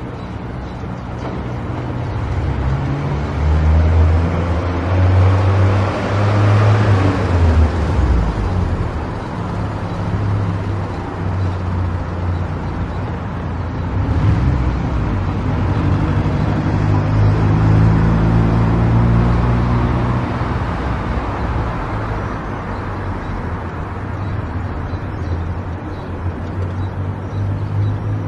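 A car driving on the road: steady engine and tyre noise, with the engine note shifting up and down as the speed changes and a louder swell of road noise about six to eight seconds in.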